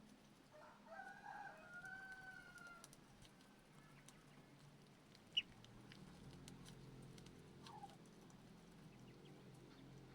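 Muscovy duckling peeping faintly from its hatching egg: a few high calls in the first three seconds and a short falling one near eight seconds in. A single sharp click about five seconds in.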